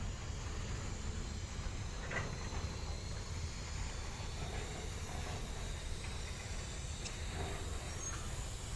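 Grain hopper wagons of a freight train rolling past on the track: a steady low rumble and hiss from the wheels and running gear, with a couple of faint ticks.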